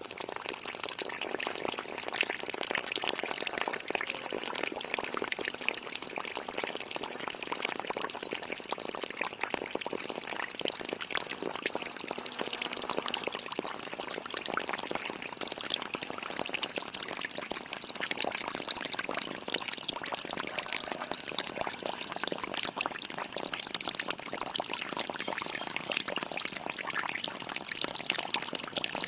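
Water pouring and splashing steadily from a small water pump's outlet.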